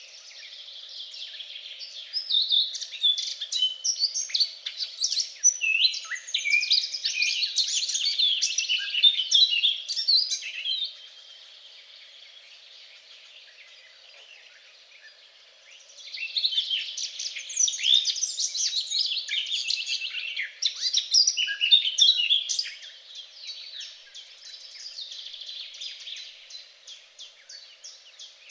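Songbirds singing together in a dense, rapid twittering chorus. It comes in two long loud spells, with softer scattered chirps between them, over a faint steady hum.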